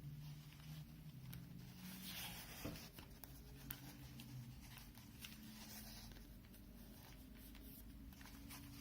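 Faint handling of over-ear headphones and their ear pads: light rustling and scratching, with a couple of soft clicks about a third of the way in, over a faint steady low hum.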